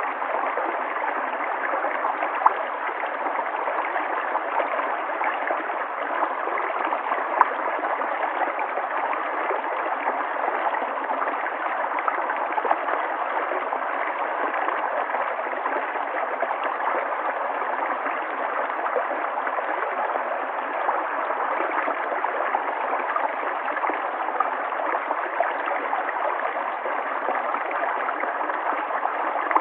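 River water flowing steadily over rocks, a continuous rushing and gurgling with a few brief louder splashes.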